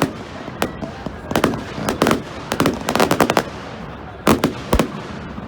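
Fireworks going off: quick clusters of sharp bangs and crackles about a second apart, with a loud pair of bangs late on.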